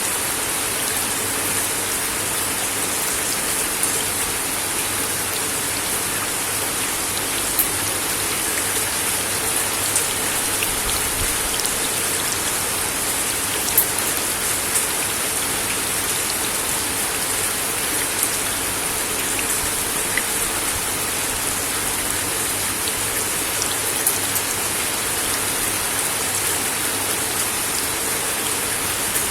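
Steady rain falling on a wooden deck, an even hiss with scattered louder drops ticking on the boards.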